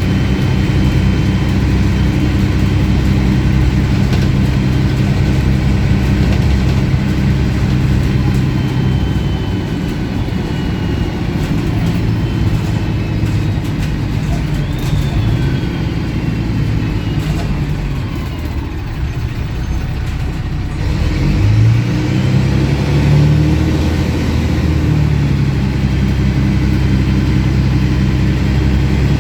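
MAN 18.220 bus's diesel engine and exhaust heard from on board, running steadily under way, easing off about two-thirds of the way through and then rising in pitch as it picks up revs again. The exhaust is louder than usual for this bus.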